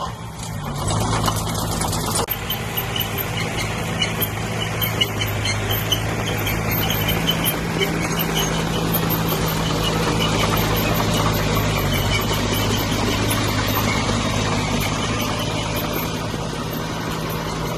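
Diesel engine of heavy earthmoving equipment running steadily, with scattered clanks over the first several seconds.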